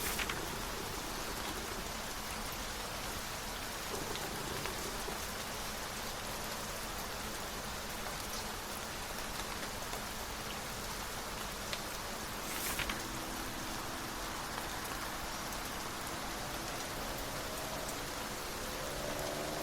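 Steady rain, with two brief rustles of book pages turning: one at the very start and one about two-thirds of the way through. Near the end a faint stacked tone slowly rises in pitch.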